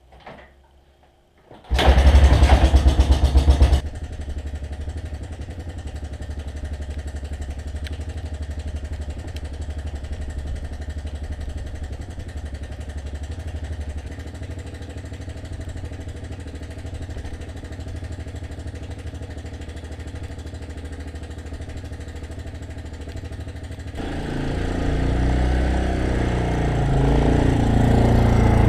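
Small gasoline engine of a snowblower starting: it catches about two seconds in, runs loud and fast for a couple of seconds, then settles to a steady run. Near the end it grows louder.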